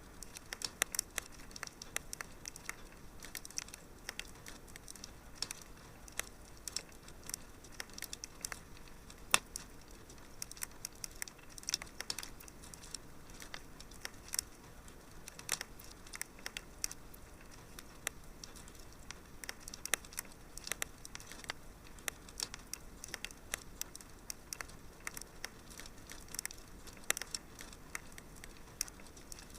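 Wood fire crackling in a fireplace: an irregular run of sharp pops and snaps, some louder than others, over a faint steady hiss.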